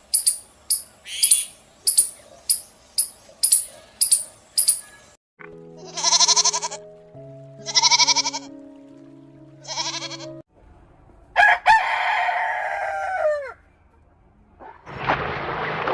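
A rooster crowing several times, the last crow falling in pitch at its end, preceded by a quick run of short high chirps at about two a second. Steady music tones sound under the middle crows.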